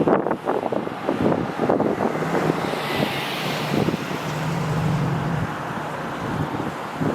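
Wind buffeting the microphone, with a vehicle going by: a steady low hum builds up a couple of seconds in and fades away about three seconds later.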